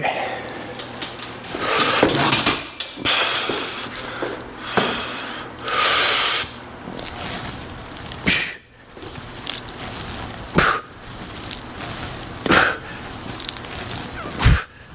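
A man breathing hard through a set of barbell overhead presses, with long breathy exhales and, later, sharp forceful breaths about every two seconds.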